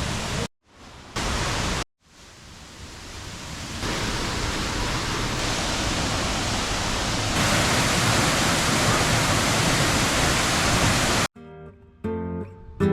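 Waterfall, a steady loud rush of falling water, cut off twice briefly in the first two seconds. Near the end it gives way to plucked acoustic guitar music.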